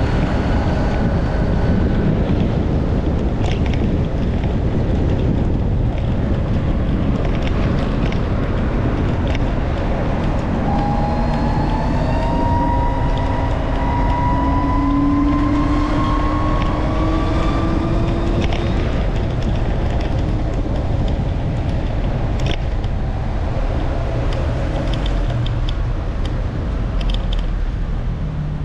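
Heavy wind buffeting the microphone over road and traffic noise while riding, with a vehicle engine note rising steadily for several seconds midway as it accelerates.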